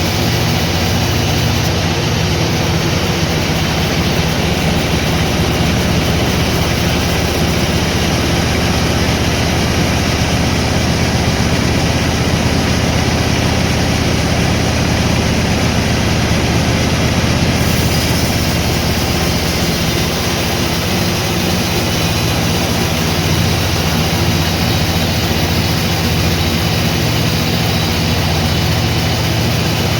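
Sawmill machinery running steadily and loud: a continuous mechanical din with a low engine-like hum underneath.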